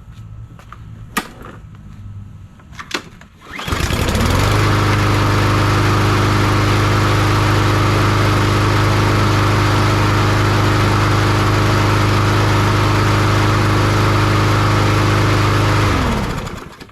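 Troy-Bilt TB230 lawn mower's Briggs & Stratton engine is started after a couple of sharp clicks. It catches about three and a half seconds in and runs at a steady speed for about twelve seconds. Near the end it is shut off and winds down.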